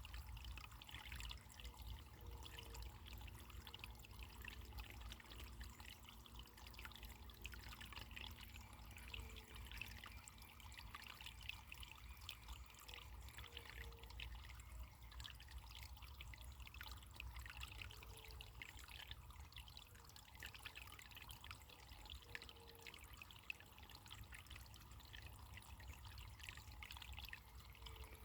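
Faint running water trickling and gurgling, with many small splashing ticks and occasional low bubbling blips.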